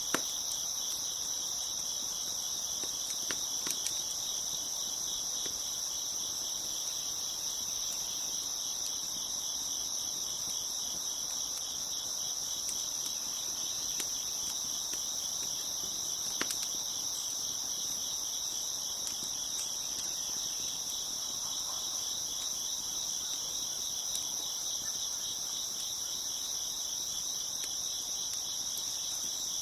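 Dense chorus of crickets chirping steadily in fast pulses, with a few scattered sharp pops from a crackling wood fire.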